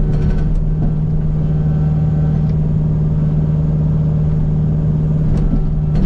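Kubota U55 mini excavator's diesel engine running at a steady speed, with a few light clicks and knocks.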